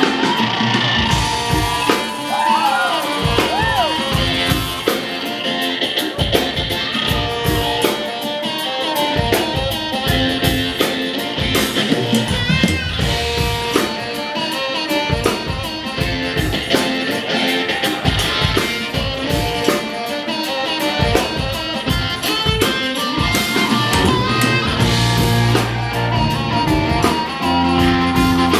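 Live rock-soul band playing, with electric guitar prominent over drums and bass and a steady beat.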